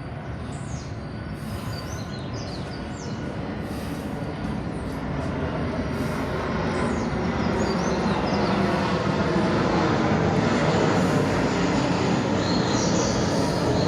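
Jet airliner's engines running, a steady roar that slowly grows louder as the plane approaches.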